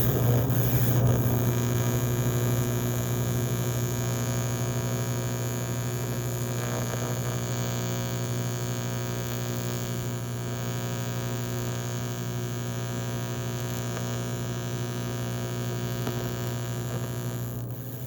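AC TIG welding arc on an aluminium Corvair cylinder head: a steady electrical buzz with a strong low hum, easing slightly in level and stopping near the end.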